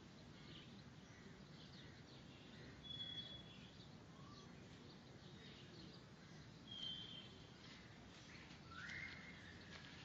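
Faint ambient noise with scattered bird calls: short high whistled notes about three and seven seconds in, and a rising whistle near the end.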